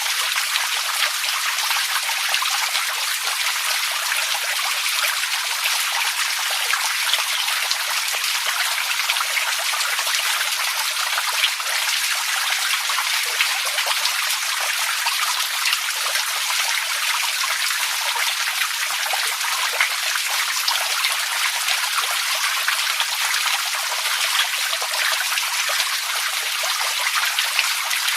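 Running water, trickling and splattering in a steady, unbroken hiss of fine drops that does not change.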